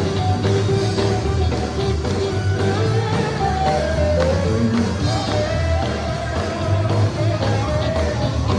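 A sacred steel gospel band playing live: a steel guitar's melody slides up and down in pitch over a heavy, steady bass line.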